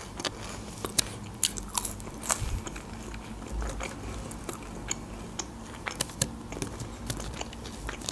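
Close-miked chewing of crispy french fries: irregular sharp crunches, several in quick succession at times, with wet mouth sounds between them.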